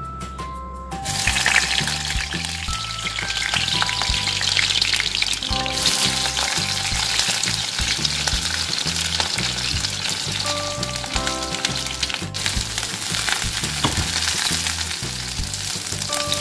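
Eggplant slices frying in hot oil in a small wok, a steady sizzle that starts abruptly about a second in as the slices go into the oil.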